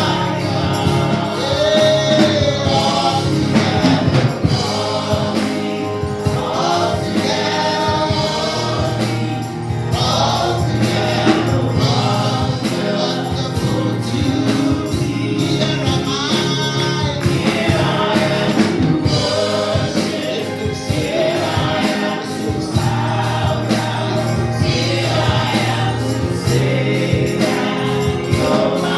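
Gospel music: a choir singing over band accompaniment, with sustained bass notes and a steady beat.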